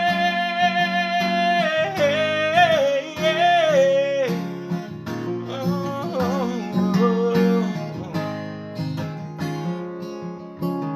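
A man's singing voice holds the last long note of a country song over strummed acoustic guitar, wavering and falling away about four seconds in. The acoustic guitar strums on to close the song, getting quieter.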